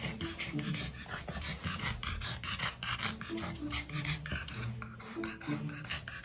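A pet animal panting: quick, even breaths, several a second, with faint music notes underneath.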